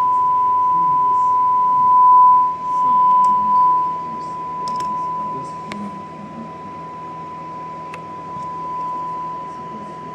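A steady 1 kHz sine test tone of the kind used to check an amplifier's output. It is loud at first and drops in level about four seconds in, with a few faint clicks over it.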